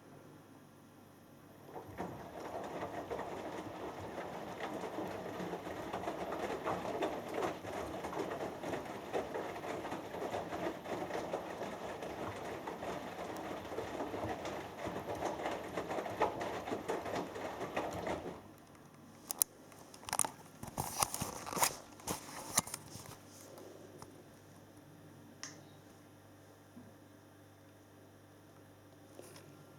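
Hoover Dynamic Next washing machine drum tumbling a wet cotton load in the wash, a dense sloshing patter of water and laundry. It stops abruptly a little past halfway as the drum pauses between turns. A few sharp clicks and knocks follow, then only a faint low hum.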